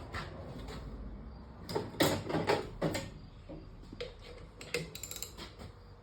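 Clinks and knocks of tools and metal parts being handled in a machine shop, in two clusters about two seconds in and again near five seconds.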